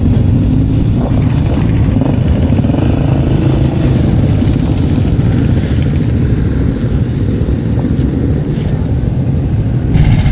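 Motorcycle engine running steadily close by, its pitch rising slightly over the first few seconds and then holding.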